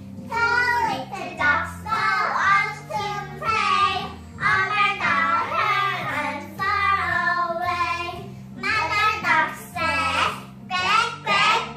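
A child singing a melody in held, sustained phrases over backing music with a steady low accompaniment.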